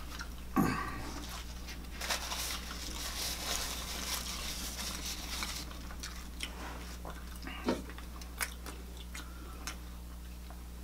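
Close-miked eating: chewing and mouth clicks of food being bitten and chewed, with a stretch of soft rustling through the middle.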